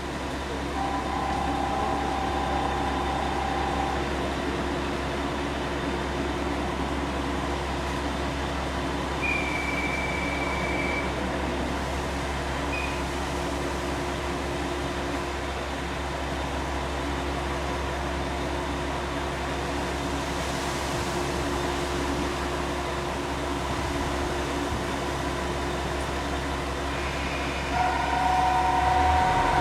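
KiHa 48 diesel railcar engines idling steadily, a constant low hum. A few short steady electronic tones sound over it: one about a second in, another near ten seconds, and a two-tone sound near the end.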